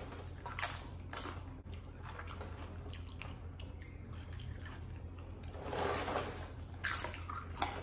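Tortilla chips dipped in queso being bitten and chewed close to the microphone: a scattered run of short crunches, with a low steady hum underneath.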